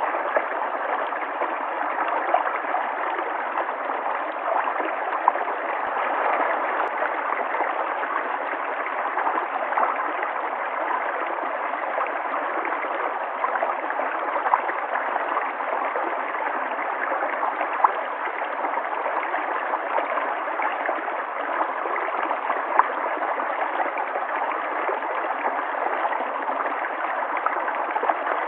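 River water flowing in a steady, even rush, with small gurgles and splashes standing out now and then.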